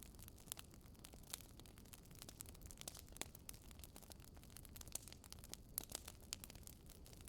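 Wood fire crackling quietly in a Swedish fire log, an upright log split lengthwise and burning from the inside, with irregular small snaps and pops, a few of them sharper.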